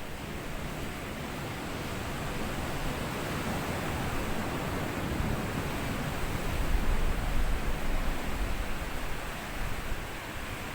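Sea waves washing onto a sandy beach. A steady wash swells to its loudest about seven seconds in, then eases.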